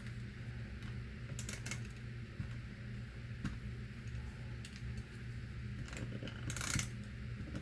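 Handheld Snail adhesive tape runner rolling tape onto cardstock, in a few short bursts of clicking and scraping. The longest and loudest burst comes near the end.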